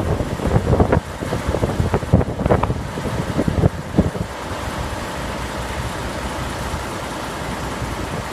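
Heavy wind buffeting on the microphone: irregular loud thumps through the first half, settling into a steady rushing noise.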